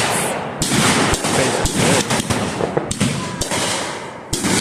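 Fireworks going off at close range: a fast string of sharp cracks and bangs, with louder bursts about every half second, that sounds like gunshots.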